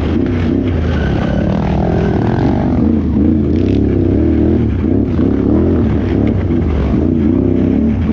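Can-Am Renegade XXC 1000R ATV's V-twin engine running under throttle. Its pitch rises and falls again and again as the throttle is worked on and off.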